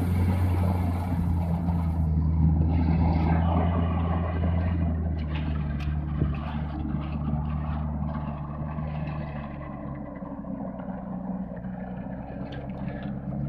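Mitsubishi Pajero 4x4's engine running under load while driving off-road, holding a steady note whose pitch drops a little in the middle and which grows quieter over the last few seconds. A few short clicks and knocks are heard midway.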